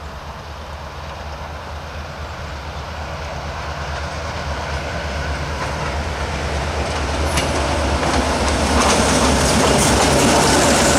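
Diesel-hauled freight train approaching on the mainline and growing steadily louder: low locomotive engine rumble under rising rail noise, with a few sharp wheel clicks as it nears.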